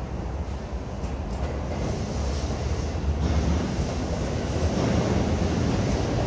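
A JR East electric commuter train in orange-and-green Shonan livery running past on the tracks below: a steady rumbling rush of wheels on rail that grows louder as the train draws level.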